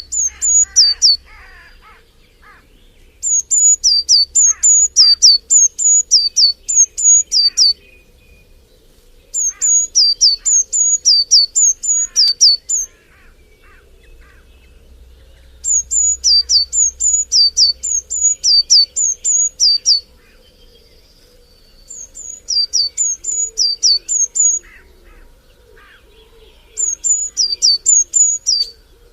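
A bird calls in loud bouts of rapid, high-pitched repeated notes, about three a second. Each bout lasts two to four seconds, with short pauses between, over fainter chirps from other birds.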